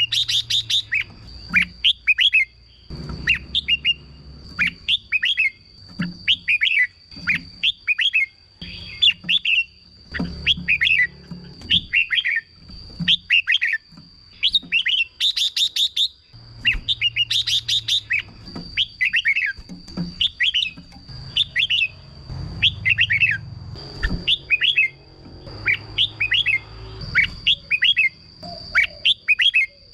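Red-whiskered bulbuls singing: short, bright chirped phrases that follow one another almost without a break. A steady thin high tone runs underneath.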